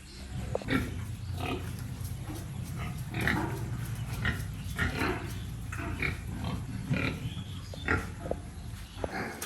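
Pigs in their pens giving short grunts and squeals, about one or two a second, over a steady low rumble.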